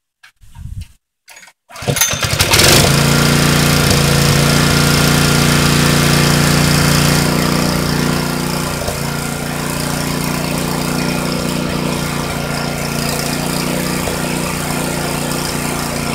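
Airless paint sprayer starting up about two seconds in after a few brief knocks, then running steadily with a low hum; it drops a little in level about halfway.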